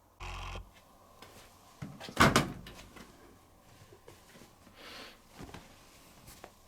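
A short rustle, then a loud knock about two seconds in, followed by quieter handling knocks and rubs.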